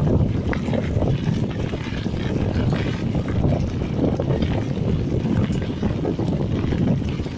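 Wind buffeting an action camera's microphone while riding a mountain bike on a dirt trail, with scattered light knocks and rattles from the bike over rough ground.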